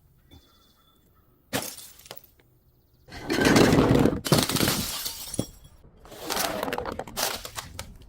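Glass bottle breaking: a sharp crack about a second and a half in, then two longer spells of loud shattering and crunching glass, ending in a few small tinkling ticks.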